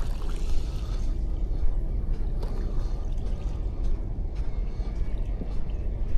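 Seashore noise of water washing at the beach, under a strong, unsteady low rumble of wind buffeting the action camera's microphone.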